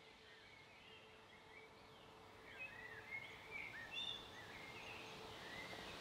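Faint outdoor ambience with a small bird singing a quick string of short chirps and whistles from about two and a half seconds in.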